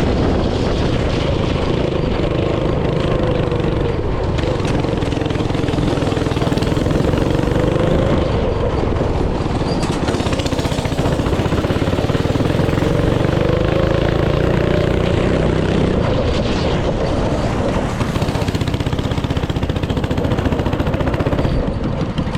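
Small engine of a go-kart or mini bike running hard, its pitch rising and falling as the throttle and speed change.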